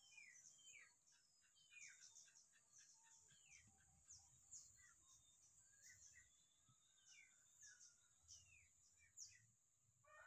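Very faint birdsong: many short chirps and quick downward-sweeping tweets from several small birds, scattered through.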